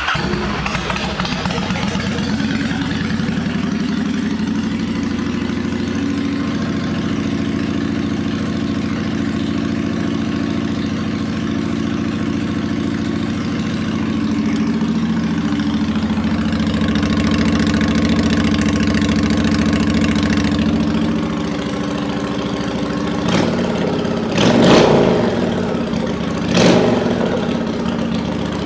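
Honda Shadow Spirit 750 V-twin, fitted with twin Vance & Hines aftermarket pipes, running at idle just after being started. Near the end it is revved briefly three times.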